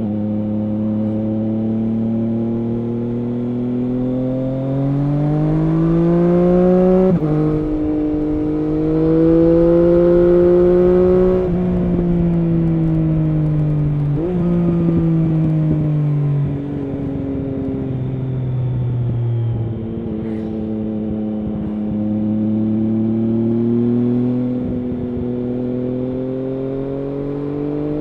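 Triumph Street Triple S three-cylinder engine running through an SC Project SC1-R slip-on exhaust with its dB killer fitted, under way. The revs climb, then drop sharply at upshifts about 7 and 14 seconds in. They fall away as the throttle is eased, build again, and then hold steady near the end.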